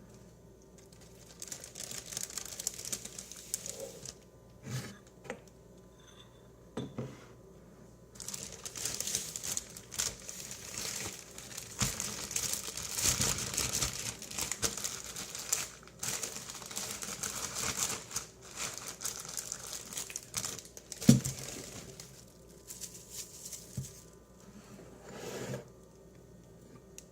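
Crinkling packaging, handled in long crackly stretches, with a few light knocks and one sharp knock about three-quarters of the way through.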